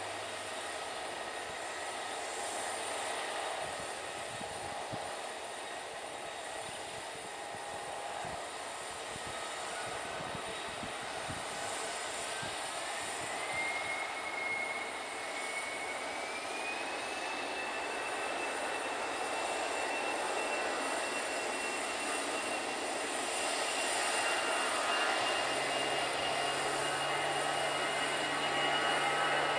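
Jet airliner engines running, with a whine that climbs in two steps from about a third of the way in and then holds steady at a higher pitch as the engines spool up to higher thrust.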